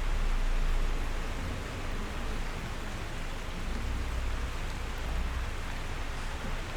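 Steady rain falling as an even hiss of drops, over a deep low rumble that is strongest at first and eases about a second in.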